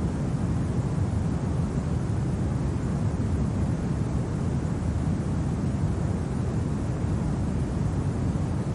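Winter wind ambience: a steady, even low rumble with a faint hiss above it, never rising or falling.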